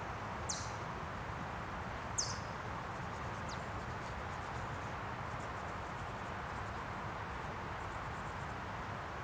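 Steady outdoor background noise, with three short, high bird chirps in the first few seconds, each falling quickly in pitch.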